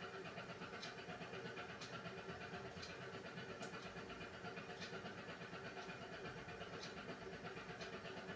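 Beko WMY81283LMB2 washing machine running a hand-wash cycle: the drum motor runs with a steady hum and whine, and faint light clicks come roughly once a second as the load turns in the drum.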